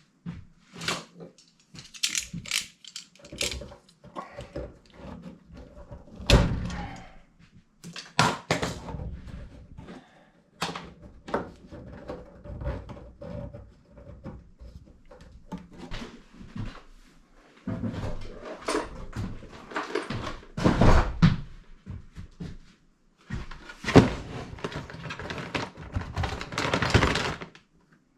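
Irregular knocks, clunks and scraping of hands working on a diesel heater and its hoses during installation, with a few louder thumps.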